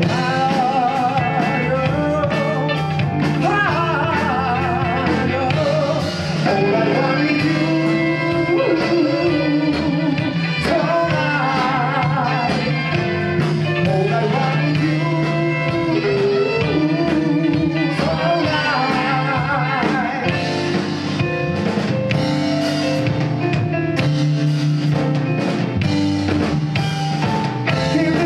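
Live rock band playing a song with drum kit, bass and guitar, and a lead melody with wavering, vibrato-laden notes over them.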